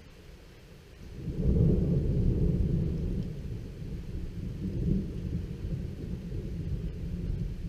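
Thunder rumbling from a nearby lightning strike: a deep rumble swells about a second in and rolls on with several further surges.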